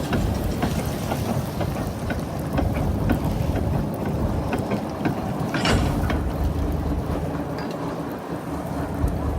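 Fishing boat's engine running steadily under an even hiss, with scattered small clicks and knocks and a brief louder rush of noise near the middle.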